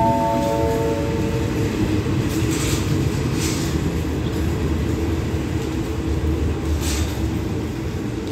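Passenger train pulling out of the station: a steady low rumble of the moving coaches, with a few overlapping steady tones dying away in the first second or two and short hisses about 2.5, 3.5 and 7 seconds in.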